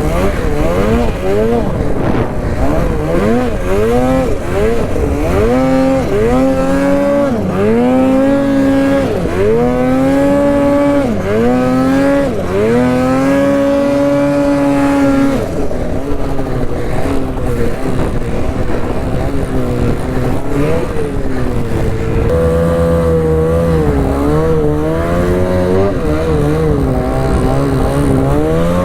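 Snowmobile engine revving hard through deep snow. The revs climb and fall again and again, about once a second, are held high for a few seconds, then run rougher before rising again near the end.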